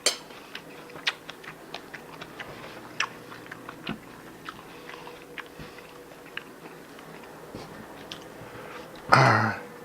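Close-up chewing and crunching of food, with many short irregular clicks. A brief loud vocal sound comes near the end.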